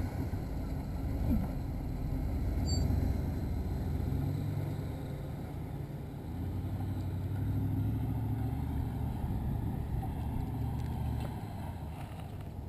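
A 1996 Jeep Grand Cherokee ZJ's 5.2-litre V8 engine heard from a distance, revving up and easing off in several swells as it drives under load through loose sand. It grows fainter near the end as the Jeep moves away.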